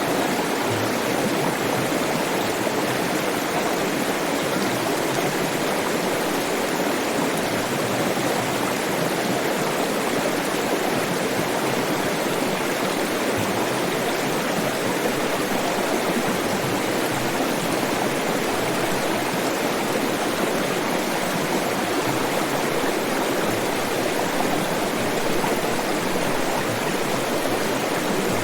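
Flowing water in a stream, a steady rushing that does not change.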